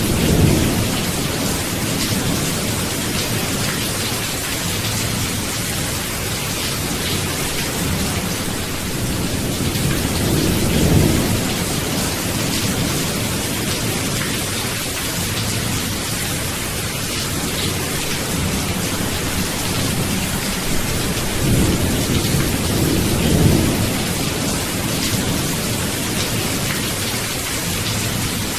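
Steady heavy rain with rolling thunder: low rumbles swell up at the start, about ten seconds in, and twice more past the twenty-second mark.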